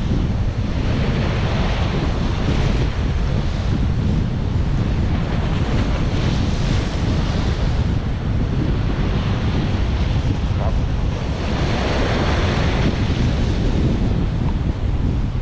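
Ocean surf washing in and out in swells every few seconds, with heavy wind rumble buffeting the microphone.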